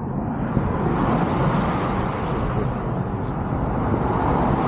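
Road traffic: a vehicle passes with a rising and fading rush of tyre and engine noise, and another starts to swell near the end.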